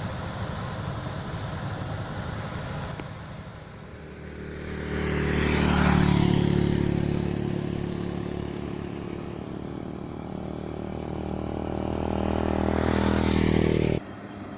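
Heavy truck's diesel engine pulling uphill under load: its drone swells a few seconds in, holds steady, then cuts off suddenly near the end.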